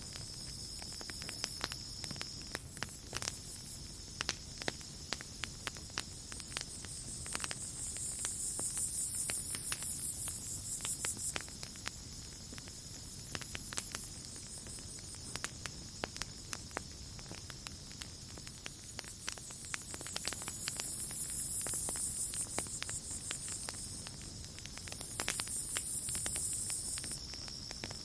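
Campfire crackling with frequent sharp pops, over night insects: a steady high trill, with bouts of louder chirring that swell and fade a few times.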